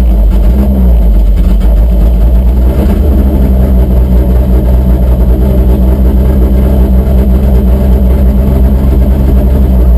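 Pulling truck's engine running loud and steady, its low note shifting slightly in pitch about a second in.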